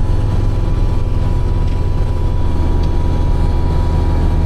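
Kubota tractor's diesel engine running steadily while driving a snow blower.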